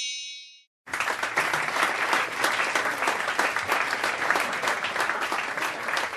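A bright chime rings out and fades, then about a second in a crowd starts applauding and keeps up steady clapping.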